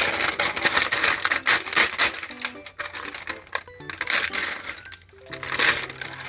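Plastic packaging wrap crinkling and tearing as it is pulled off by hand: a dense run of crackles for the first few seconds, then scattered crackles. Background music plays underneath.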